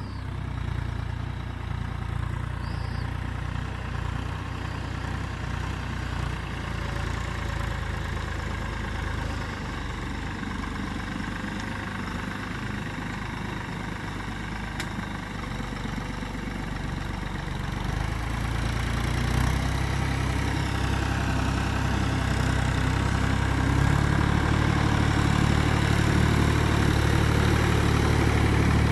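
A steady low motor-like hum or rumble that grows louder about two-thirds of the way through.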